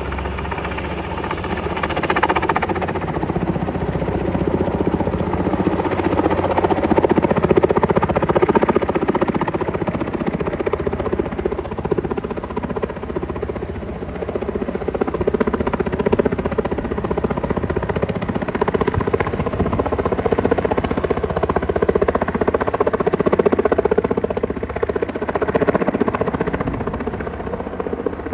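Sikorsky H-34 helicopter running, its nine-cylinder radial piston engine and rotor making a continuous loud drone that swells and eases a little.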